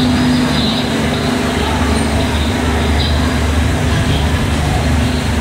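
Steady low hum of a passenger train's machinery running as it stands at the platform, with people's voices faintly mixed in.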